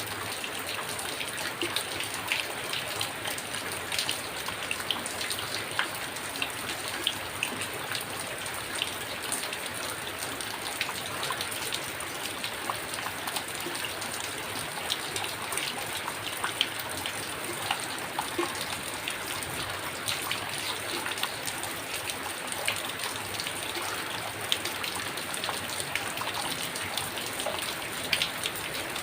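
Heavy rain falling steadily, with many sharp individual drop hits scattered through it.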